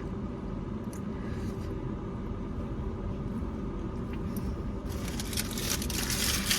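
Steady low hum of a car interior while someone chews a mouthful of burrito, with a few faint mouth clicks. About five seconds in, a loud crackling, rustling noise starts up.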